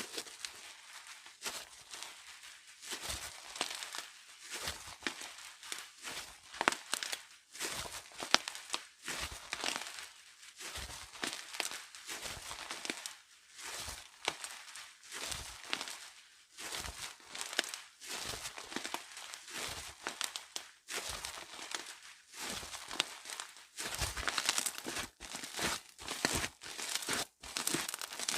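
Slime being squeezed, poked and stretched by hand, giving a continuous run of irregular crackles and small clicks with brief pauses.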